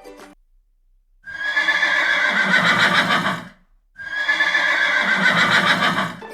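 A horse whinnying: a high neigh that falls in pitch and ends in a lower rumble, heard twice in a row.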